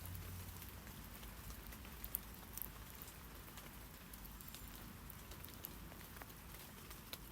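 Rain falling on tree leaves: a faint, steady hiss with scattered drops ticking, two louder drops about two seconds in.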